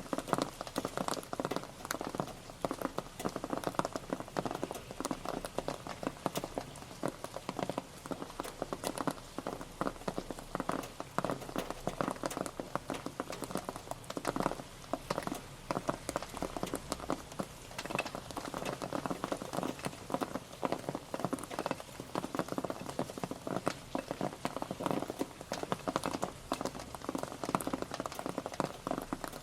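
Steady rain pattering: a dense, even stream of drops ticking on a surface, with no let-up.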